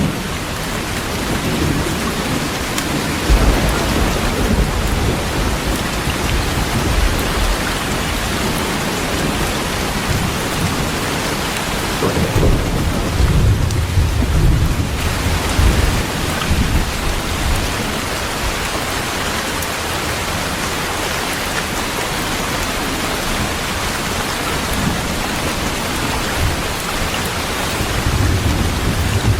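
Heavy rain falling steadily, with low rolls of thunder: a long rumble a few seconds in, another around the middle, and a shorter one near the end.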